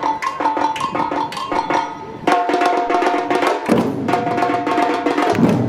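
Batucada samba percussion group playing a fast, dense rhythm of drum strikes. It gets louder about two seconds in, and deeper bass-drum beats come in later.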